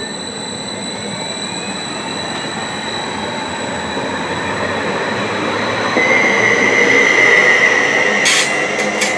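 Greater Anglia Class 755 bi-mode multiple unit passing close by, the rumble of its wheels on the rails swelling steadily louder. About six seconds in a steady high tone joins the noise, and a few sharp clicks come near the end.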